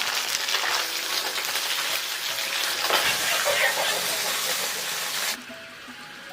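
Fish pieces frying in hot oil, a steady sizzle that cuts off abruptly about five seconds in.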